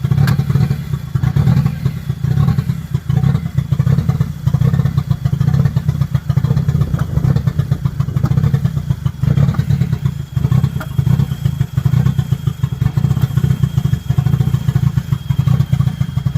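A 1.8T 20-valve turbocharged four-cylinder engine running at a steady speed on its first start-up after sitting for five years, with a loud, even, pulsing exhaust note.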